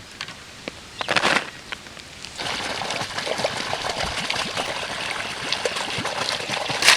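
Water pouring and trickling as mutton is rinsed in a vessel, starting about two and a half seconds in. A few light clinks and a short rustle come before it.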